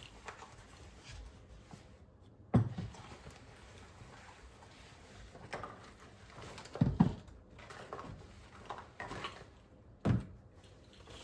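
A few short, sharp knocks and thuds of household objects being handled: one about two and a half seconds in, two close together past the middle, and one near the end.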